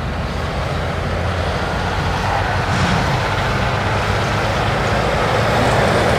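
Competition pulling tractor's engine running hard, growing steadily louder.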